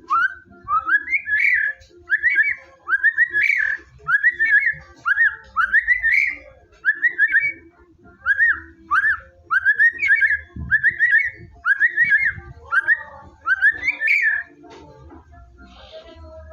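White-rumped shama (murai batu) singing a fast run of loud, short whistled phrases, each sweeping upward, about two a second; the song stops near the end.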